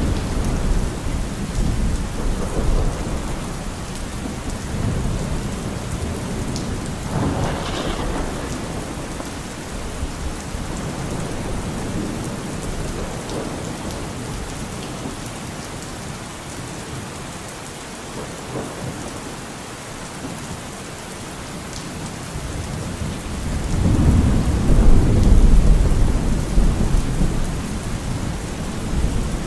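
Steady rain falling, with rolling thunder. Low rumbles fade through the middle, then a louder roll of thunder swells in about three-quarters of the way through.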